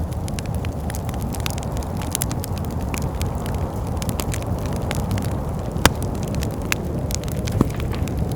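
Wood fire in a fireplace crackling, with scattered sharp pops and one louder pop about six seconds in, over a steady low rumble of wind.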